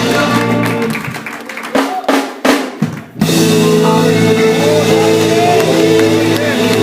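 A live gospel band playing. About a second in the band drops out, leaving a short drum break of separate hits. Just after three seconds the full band comes back in, with sustained chords and voices over it.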